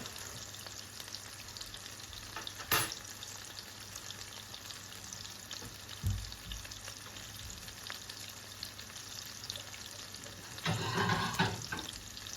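Food sizzling in a pan, a steady fine crackle, with a sharp click about three seconds in, a dull thud around six seconds, and a short burst of stirring or scraping near the end.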